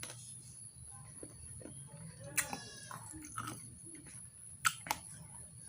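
Eating sounds from a plate of mutton curry and rice, with two sharp crunches close together near the end. A short, high-pitched cry sounds once about halfway through.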